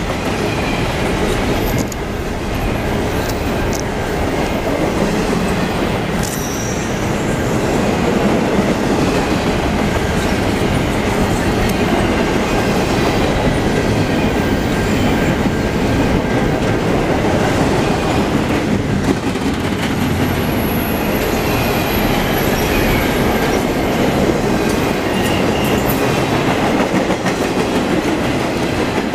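Double-stack container well cars of a freight train rolling past at close range: steel wheels running on the rails in a loud, steady rumble.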